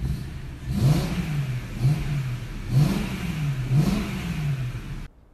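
BMW E92 M3's S65 V8 engine revved in four throttle blips about a second apart, each rising and falling in pitch, heard through a phone microphone inside the cabin. The sound cuts off suddenly near the end.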